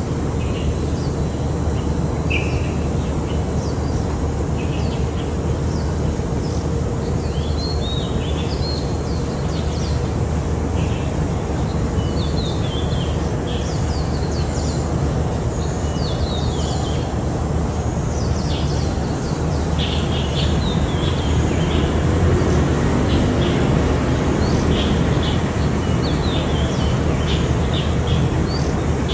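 Birds chirping, many short high calls, over a steady low rumble.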